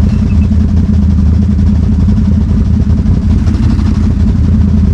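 ATV engine running steadily at low revs, with an even low drone and no revving.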